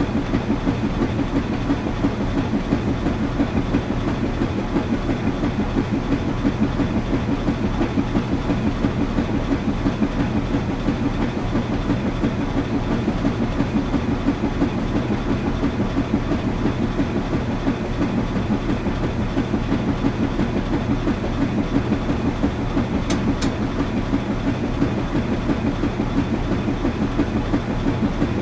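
Washing machine running steadily, with a fast, even pulsing over a constant low hum. Two faint clicks come about two-thirds of the way through.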